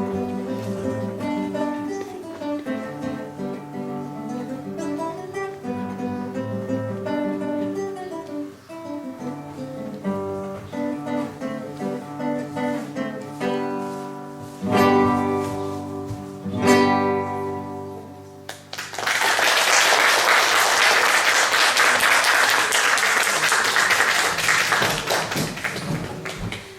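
Acoustic guitar playing a plucked melody that ends on two loud strummed chords. About two-thirds of the way through, an audience breaks into steady applause.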